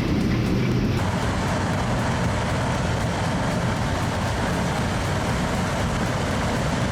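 Sugarcane harvesting machinery running: a steady engine and mechanical noise that changes abruptly about a second in, as one clip cuts to the next.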